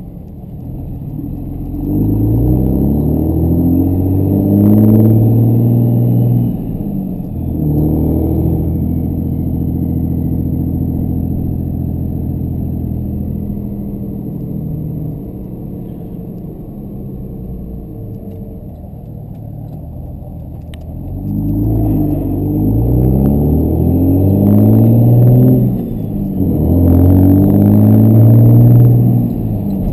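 Compound-turbocharged 5.9 Cummins inline-six turbodiesel heard from inside the truck's cab, pulling hard through the gears. Its pitch climbs under acceleration and drops as it shifts up about seven seconds in; it runs steadily for a while, then climbs again and shifts once more near the end.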